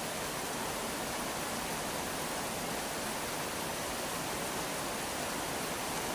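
Steady rainfall: an even, unbroken hiss with no single drops or other sounds standing out.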